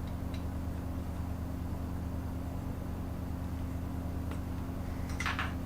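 Steady electric hum from a running workshop machine motor, with a few faint light ticks.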